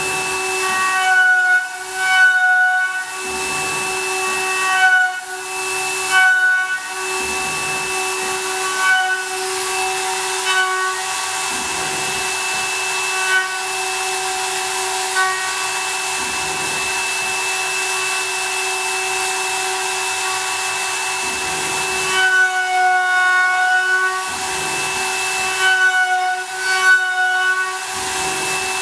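CNC milling machine cutting aluminium: a steady high spindle whine over a constant hiss. The cutting tones grow louder and fade again every second or two as the cutter works along the part.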